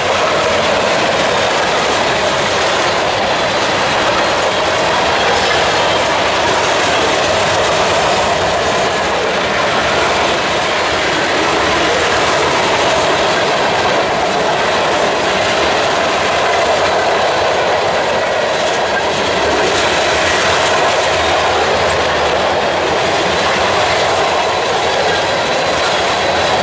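Freight train cars rolling past at steady speed: steel wheels on the rails making a continuous rolling noise and clatter.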